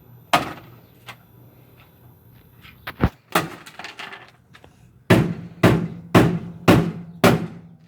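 Heavy blows smashing a Whirlpool Duet front-loading washing machine. One strike comes just after the start and a few lighter knocks come around three seconds in. Then five hard strikes land at about two a second from five seconds in.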